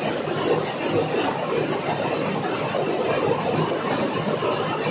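Heavy rain pouring down steadily: a dense, even rush of rain with no breaks.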